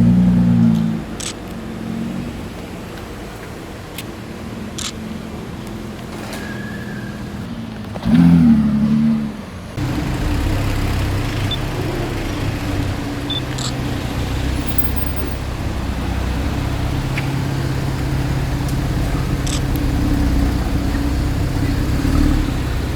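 Supercar engines revving: a short loud rev at the start and another about eight seconds in whose pitch rises and falls. Then, after an abrupt change, a steady low engine drone of cars idling or rolling slowly.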